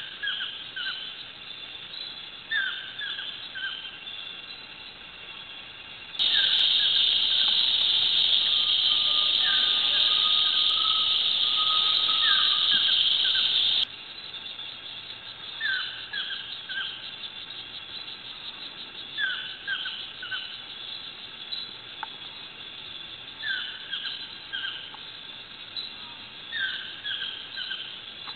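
Nature soundscape of songbirds repeating short, falling chirps in little groups every second or so. From about six seconds in, a loud steady high-pitched buzz, like an insect chorus, sits over the birds for about eight seconds and cuts off abruptly.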